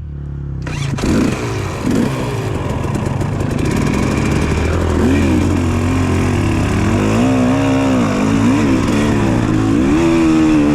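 Dirt bike engine revving up and pulling away, its pitch rising and falling repeatedly with the throttle and gear changes.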